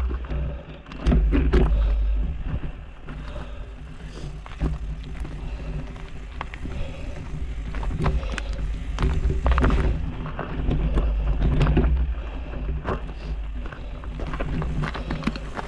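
Mountain bike rattling and clattering over a rocky dirt trail, with wind buffeting the microphone in gusts.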